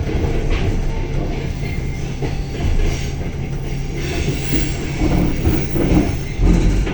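Passenger train departing and rolling past, its wheels on the rails making a steady rumble with a low hum under it.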